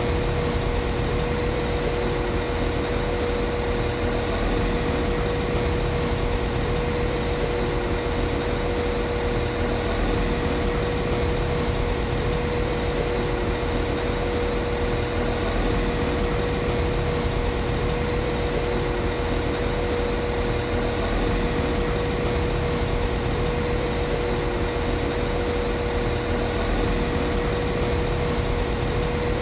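Diesel engine of a Class 195 CAF Civity diesel multiple unit idling steadily, with a constant high whine running over the rumble.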